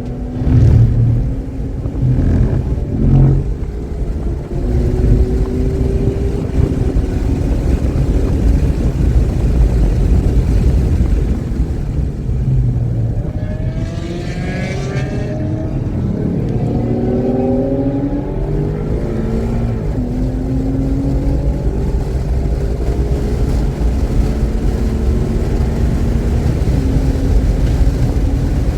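Race car engine heard onboard, accelerating hard with its note rising, then dropping at each gear change, over heavy low wind and road rumble. It runs cleanly, without misfiring.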